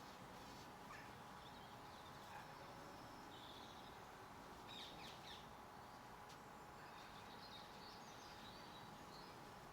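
Faint, scattered chirps and calls of small garden birds over a steady hiss, with a brief denser flurry of calls about five seconds in.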